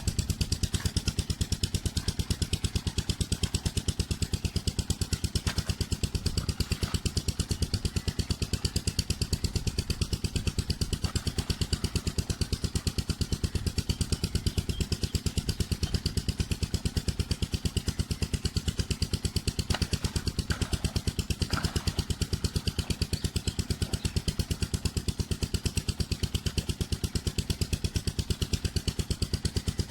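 Stationary diesel engine driving a village tubewell, running steadily with an even, fast chugging beat.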